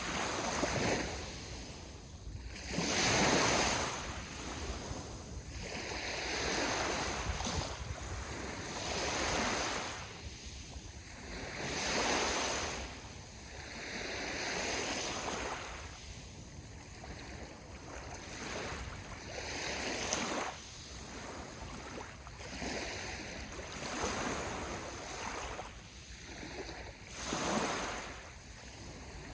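Ocean waves breaking on the shore, one surge of surf every two to three seconds, each swelling and fading away.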